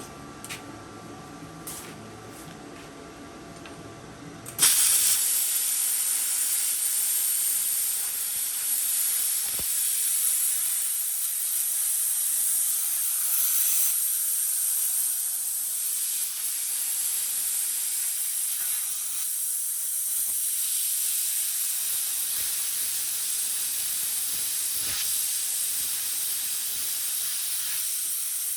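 Plasma cutter with a new tip fitted: a low hum and a few clicks, then about four and a half seconds in the arc strikes and a loud, steady hiss of cutting steel runs on.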